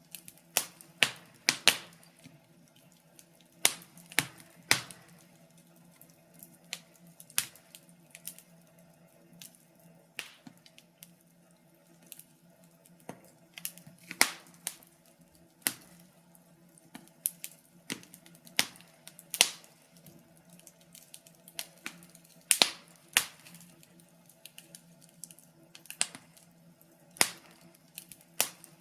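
Wood fire crackling in a fireplace: irregular sharp pops and snaps, some single, some in quick clusters, over a faint steady low hum.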